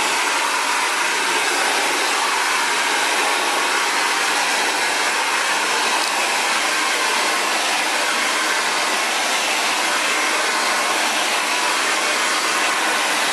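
Xtava Allure ionic ceramic hair dryer blowing steadily on a high setting as it dries curly hair, a constant loud rush of air and fan noise.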